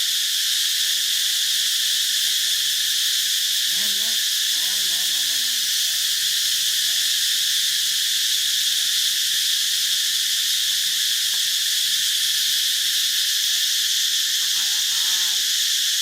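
Steady, high-pitched chorus of insects droning without a break. Faint short wavering calls rise and fall about four seconds in and again near the end.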